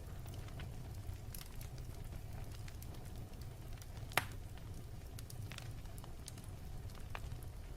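Wood fire burning with a steady low rumble and scattered crackles, one loud sharp pop about four seconds in.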